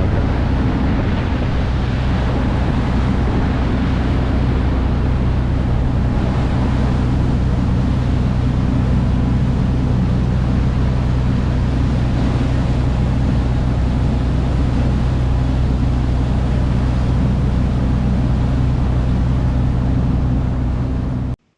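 Tour boat's engine running steadily with a low hum, under the rush of wind and water passing the hull. It cuts off suddenly near the end.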